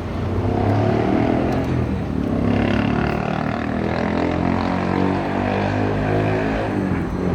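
Car engine running, its pitch drifting up and down.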